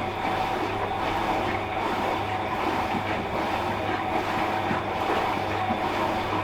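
Washing machine running a cycle: a steady low hum under an even wash noise that swells and eases about once a second.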